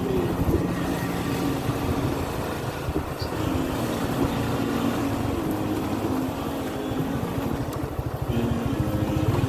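Suzuki Gixxer FI ABS motorcycle engine running steadily while riding, a dense rapid low pulsing under a broad rushing hiss.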